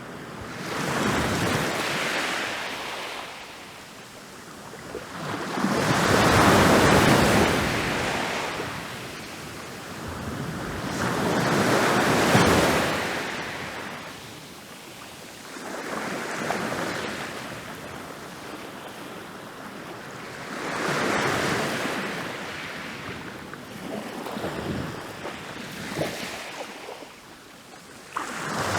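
Ocean waves breaking on a beach, rolling in and washing back, one swell of surf about every four to five seconds.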